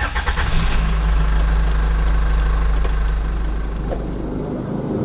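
Old truck's engine running steadily with a low drone, easing off a little near the end.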